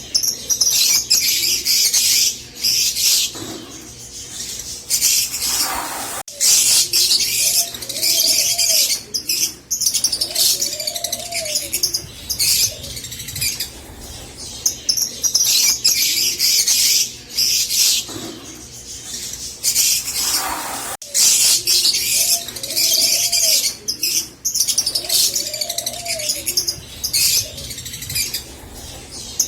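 Rosy-faced lovebirds chattering and chirping, a dense shrill twitter in long runs with softer, lower calls among them. The chatter breaks off abruptly twice, then resumes.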